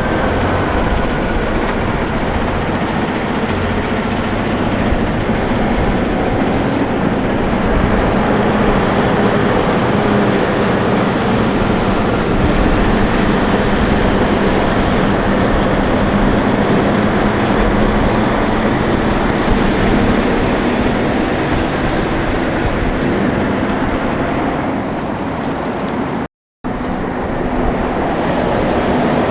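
Semi trucks driving past, a steady mix of diesel engine drone and tyre noise. It cuts out for a moment near the end, then similar truck noise picks up again.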